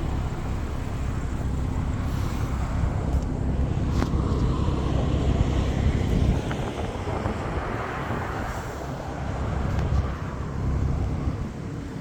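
Road traffic going past, a steady rumble that swells as vehicles pass, with wind rumbling on the microphone.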